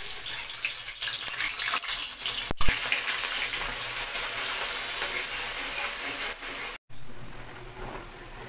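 Thin-shredded potatoes deep-frying in hot oil in a wok: a steady, dense sizzle as they are stirred, with one sharp knock about two and a half seconds in. The sizzle cuts out for an instant about two-thirds through and comes back quieter.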